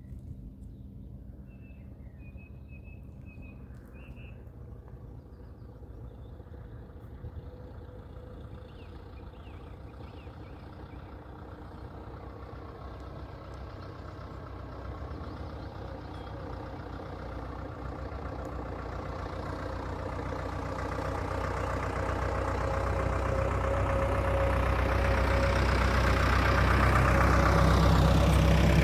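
Vintage tractor engine running steadily, growing gradually louder as it approaches, its pitch dropping near the end as it passes. A few bird chirps sound in the first few seconds.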